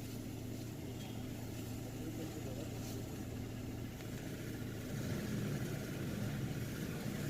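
Chevrolet Optra's four-cylinder petrol engine idling with a slight, uneven misfire and shake. It gets a little louder and rougher about five seconds in. The miss is traced to weak ignition-coil spark on cylinders 2 and 3.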